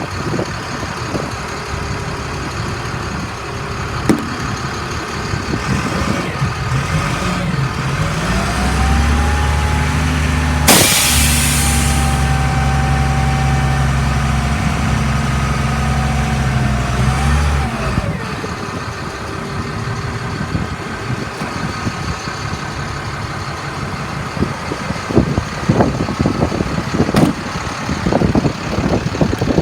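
International 4400 dump truck's DT466 diesel engine running with the PTO engaged to work the dump bed hoist: it idles, climbs to higher revs for about ten seconds, then drops back to idle. A short sharp hiss comes partway through the raised-rev stretch.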